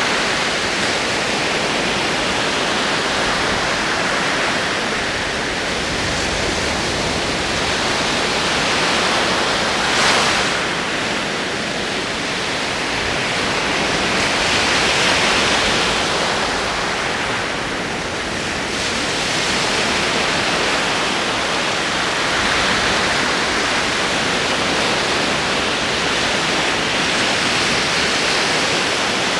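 Ocean surf: a steady wash of breaking waves that swells and recedes every few seconds, with one sharper crash about ten seconds in.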